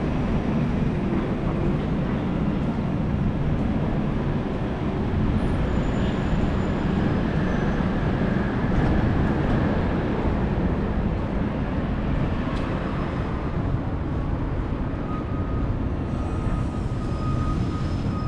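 Steady rumble of wind on the microphone and road noise while riding a bicycle, with a faint thin whine coming in near the end.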